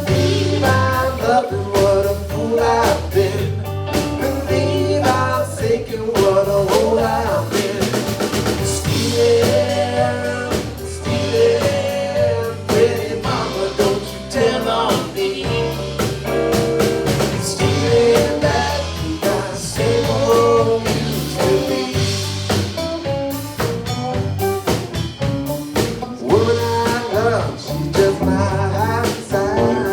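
Live blues band playing, with a drum kit keeping a steady beat under the instruments and singing.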